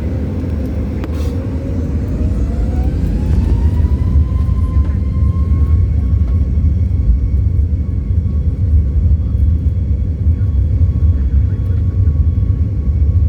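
Boeing 737 MAX 8's CFM LEAP-1B jet engines spooling up to takeoff thrust: a whine rises in pitch over the first few seconds, then holds steady over a deep rumble that grows louder.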